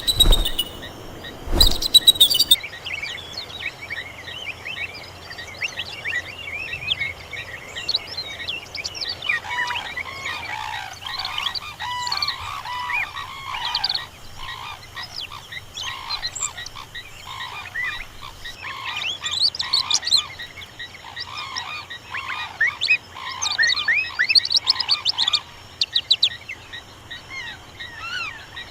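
A dense natural chorus of many short chirping calls, with lower croak-like calls joining about ten seconds in, typical of birds and frogs together. Two loud sudden bursts come right at the start.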